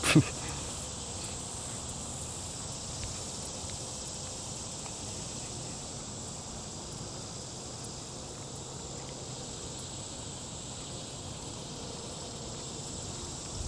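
Steady outdoor ambience with a constant high-pitched insect buzz; no aircraft passes.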